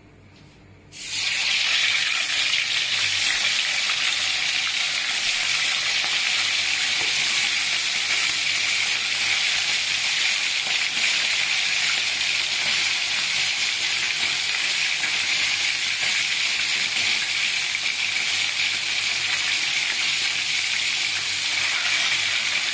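Chicken wings being lowered into hot cooking oil in a wok: about a second in, a loud sizzle starts suddenly and then holds steady as the wings deep-fry.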